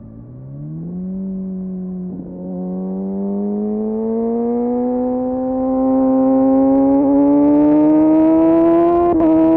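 Kawasaki Ninja engine through an Arrow aftermarket exhaust with the dB killer removed, dropping to low revs at the start, then accelerating hard: a gear change about two seconds in, then a long steady rise in pitch and loudness, with another quick shift near the end.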